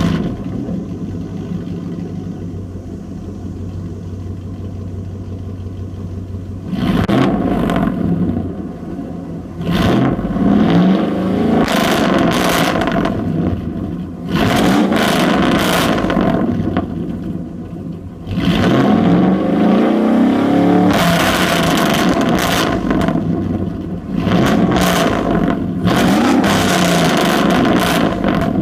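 Straight-piped 5.3L Vortec V8 of a 2004 Chevy Silverado, with no catalytic converters and no muffler, starting and idling for about six seconds, then revved repeatedly in short blips that fall back to idle.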